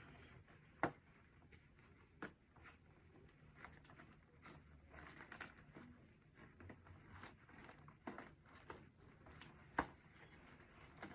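Faint rustling and light tapping of gift items and packaging being handled, with a few sharp clicks, the loudest about a second in and near the end.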